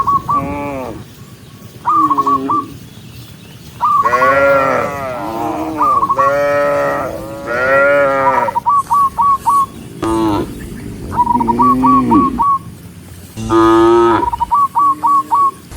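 A herd of cattle mooing again and again, long calls from several cows overlapping one another. Between the moos come short runs of four or five quick high notes.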